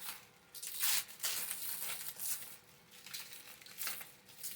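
Protective plastic wrap being peeled and crumpled off a new chrome exhaust tip: a run of uneven crinkling and tearing rustles.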